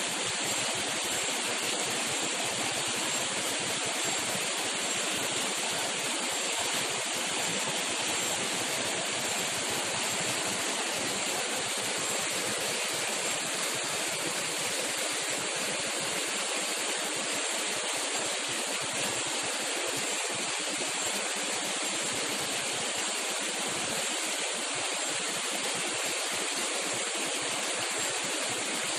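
Steady rush of running water, like a forest stream or small waterfall, holding an even level without a break.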